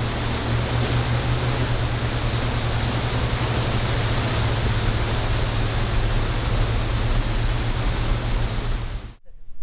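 A motorboat's engine running steadily as a low hum under a strong rushing noise of wind and water while under way. It cuts off abruptly near the end.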